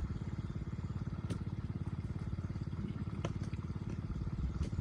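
A small engine running steadily with a fast, even putter, and a few faint clicks over it.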